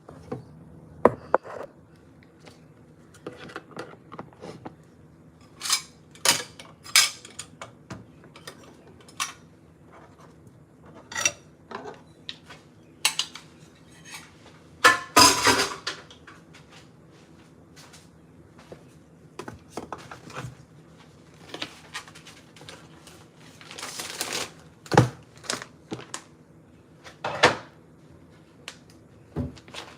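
Dishes and cutlery clinking and clattering in irregular knocks, with busier stretches of clatter about halfway through and again a few seconds before the end.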